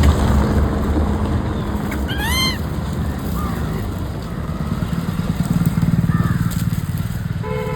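Road traffic: a motor vehicle engine rumbling steadily, with a vehicle horn sounding briefly at the very end. A short high call that rises and falls comes about two seconds in.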